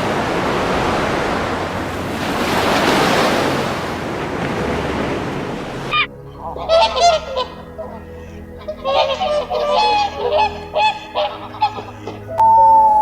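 A steady rushing noise for about six seconds, then a flock of birds giving many short, repeated calls. A long, slowly falling howl starts just before the end.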